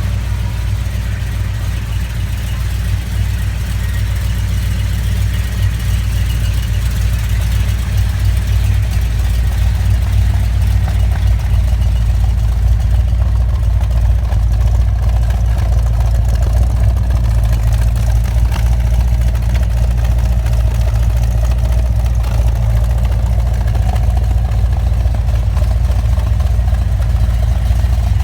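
1972 Chevrolet Corvette's LS5 454 big-block V8 idling steadily, its sound mostly low-pitched.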